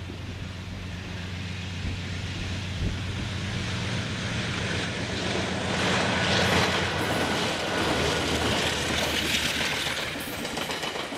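Diesel locomotives hauling a loaded coal train approach and pass close by, with a steady engine hum. About six seconds in, the locomotives go by and the sound swells into the loud rumble and wheel-on-rail noise of the hopper wagons rolling past.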